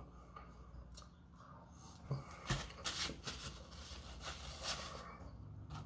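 Close-up eating sounds: a run of short crackly crunches and rustles from food being bitten and chewed, bunched from about two to five seconds in.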